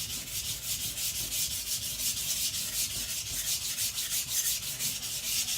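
Niolox-steel nakiri blade being ground back and forth on a coarse Shapton Pro 220 whetstone in rapid, even strokes, a steady scraping hiss as metal is removed to thin the blade.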